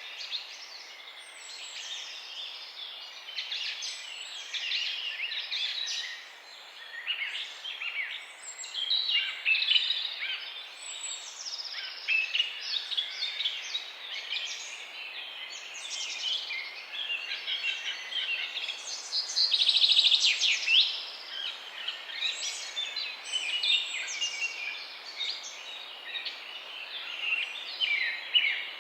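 A chorus of songbirds chirping and trilling at once, several birds overlapping with no pause, over a light steady hiss. One bird is loudest about twenty seconds in, with a rapid trill.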